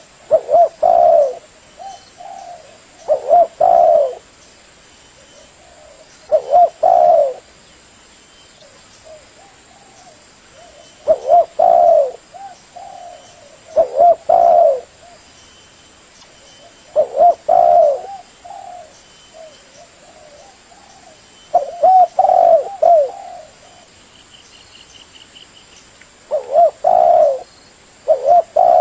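Spotted dove (tekukur) cooing: a loud coo phrase of about a second repeated roughly every three seconds, with softer coos between.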